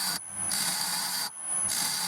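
Wood being cut on a spinning lathe, a chestnut grinder body shaped with a turning tool: a steady hiss of shavings in passes broken by short pauses, one at the start and one a little past halfway.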